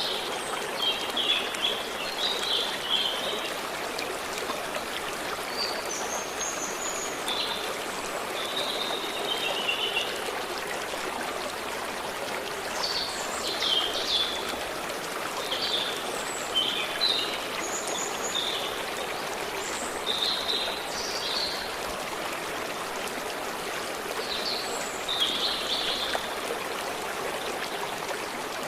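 A stream running steadily over stones, with small birds singing short chirps and warbles on and off above it.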